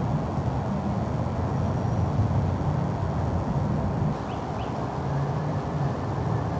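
Steady low rumble of interstate highway traffic, with two faint short chirps about four seconds in.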